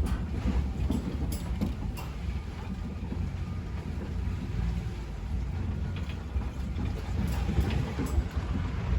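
Tractor engine running with a steady low rumble, with a few light metal clanks in the first couple of seconds.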